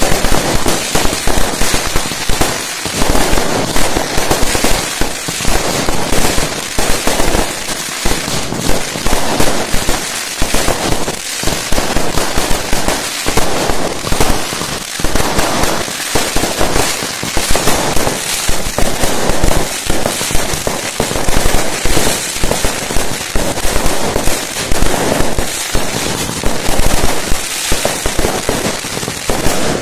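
Fireworks display going off in a dense, unbroken barrage: rapid, loud bangs overlapping with crackling bursts, many per second.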